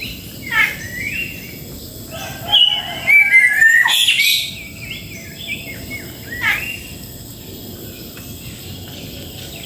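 Songbirds chirping and calling in short, repeated notes, many of them sweeping downward, with a louder, busier flurry of calls a few seconds in.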